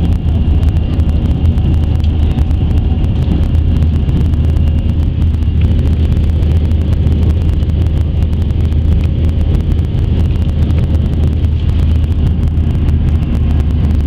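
Airbus A320's CFM56 jet engines under high thrust, heard from inside the passenger cabin: a loud, steady deep rumble with a faint high steady whine over it.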